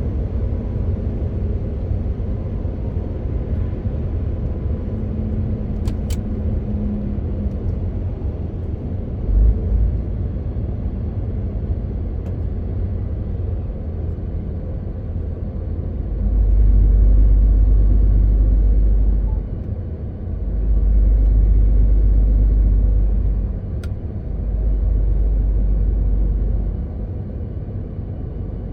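MAN TGX 18.520 truck on the move: the steady rumble of its diesel engine and road noise, with a deep low rumble swelling up three times, each for two to three seconds, in the second half.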